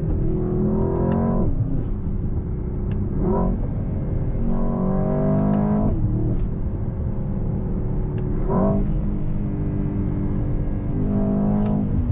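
Mercedes-AMG S63 E Performance's twin-turbo 4.0-litre V8 heard from inside the cabin, its engine note climbing steeply and then falling back several times over a low steady road rumble.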